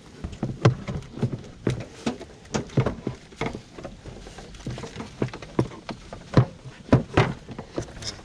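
Irregular knocks and clunks, about one or two a second, of tools and parts being handled during work on the van's clutch.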